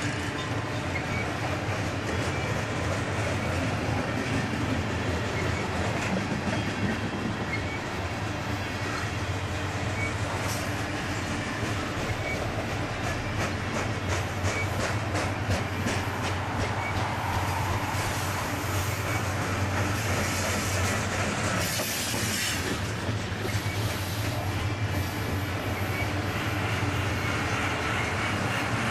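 Covered grain hopper cars of a freight train rolling past close by: a steady rumble of steel wheels on rail with rhythmic clicking over the rail joints. Wheels screech briefly about twenty seconds in.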